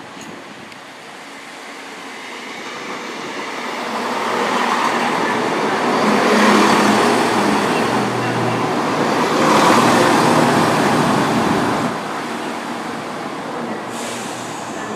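Class 170 Turbostar diesel multiple unit arriving and running past close by. The noise builds over several seconds, stays loud through the middle, then drops away about twelve seconds in.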